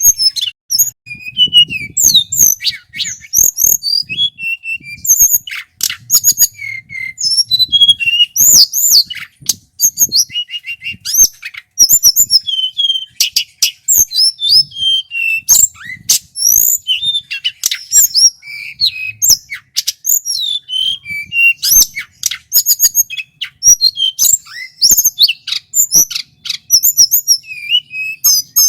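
Male tledekan gunung, a flycatcher, singing a long run of rapid, varied whistled phrases with sliding notes and sharp clicky calls, loud and clear, with only brief pauses.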